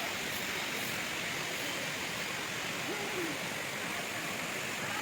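Waterfall's water pouring and splashing in a steady, unbroken rush.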